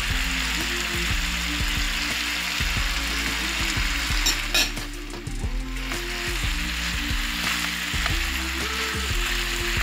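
Chicken breast pieces and diced vegetables, with freshly added red pepper, sizzling in a hot frying pan while a silicone spatula stirs them. A few sharp ticks of the spatula against the pan come about four and a half seconds in.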